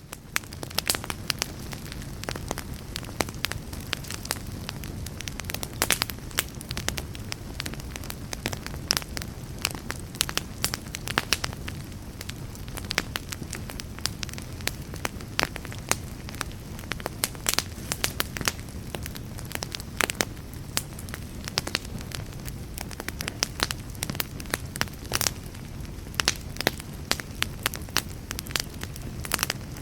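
A fire crackling steadily: a low, even rumble of flames with frequent sharp pops and snaps at irregular intervals. The sound fades in at the very start.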